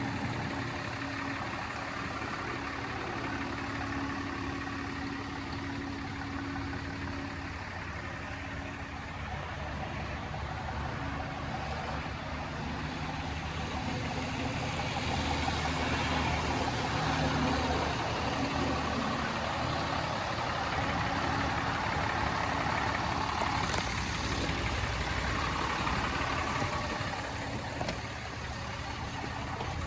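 A 2015 Ram 2500's 6.7-litre Cummins turbo-diesel inline-six idling steadily, growing louder with a rushing noise from about halfway.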